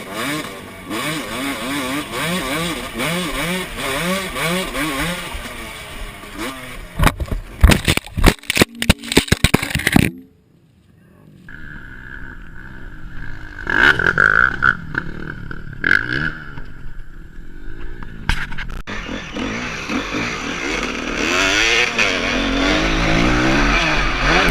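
Motocross dirt-bike engines revving, their pitch rising and falling as they ride, with a rapid run of loud sharp knocks or clatters about seven to ten seconds in. The sound drops out briefly, then a steady high whine is heard, and engines rev again near the end.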